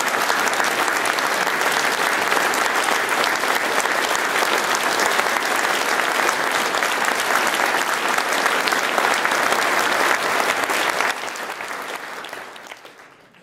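Large audience applauding steadily, dying away over the last two seconds.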